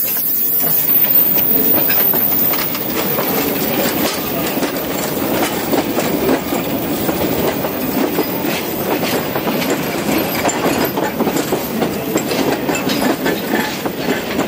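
A narrow-gauge steam train rolling past: the locomotive and then a string of open wooden wagons, their wheels clattering and clacking over the track in a dense, irregular stream of clicks. Loudest about a second in, then steady as the wagons go by.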